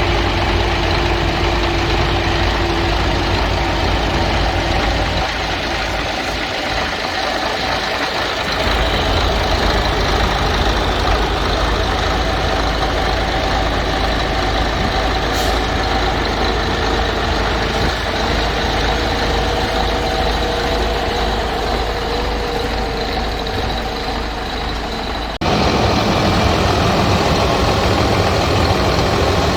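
Isuzu truck's 6HK1 inline-six diesel engine running steadily, its pitch wandering a little. About 25 seconds in the sound cuts abruptly to a louder take of the engine.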